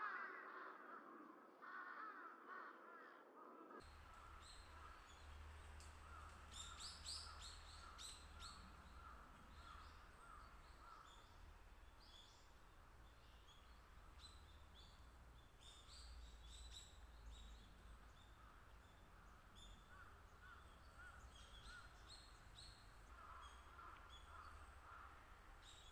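A crow cawing at first. After an abrupt change a few seconds in, faint high chirps and repeated calls of small birds come over a low steady rumble.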